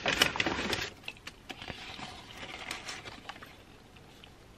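A short burst of rustling and crinkling in the first second, then a few light scattered clicks and handling noises.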